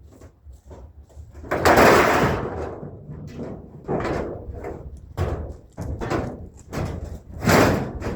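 Scrap being thrown onto a truck's load: a run of crashes and bangs, the loudest about one and a half seconds in with a long ringing tail, then several more at intervals of a second or so.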